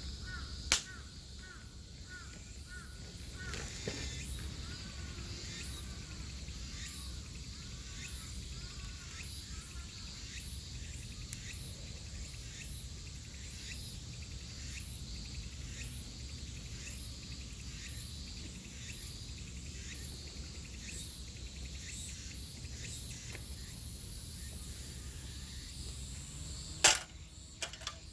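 Outdoor ambience: insects chirping in short high-pitched pulses about once a second over a low steady rumble, with a bird calling in short rising-and-falling notes during the first few seconds. A couple of sharp clicks near the end are the loudest sounds.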